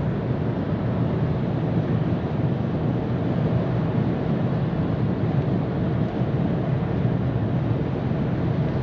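2022 Ford Maverick pickup at highway speed: a steady rumble of tyre and road noise mixed with wind noise, even throughout with no separate knocks or changes.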